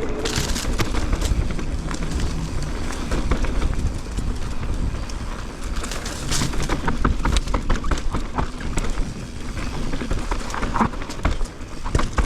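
Specialized Levo e-mountain bike rolling down a rocky trail: a steady stream of irregular rattles, clicks and knocks from the tyres, chain and frame over the rocks, over a low wind rumble on the microphone.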